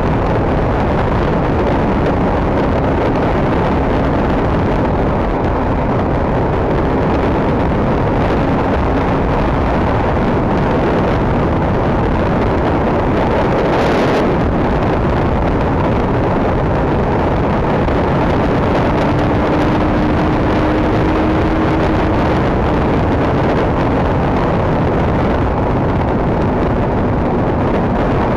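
KTM RC390 motorcycle ridden at highway speed: steady wind rush over the microphone with the single-cylinder engine running underneath. A brief louder whoosh comes about halfway through.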